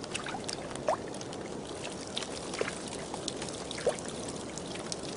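Water trickling and gurgling steadily, with scattered small drips and plops.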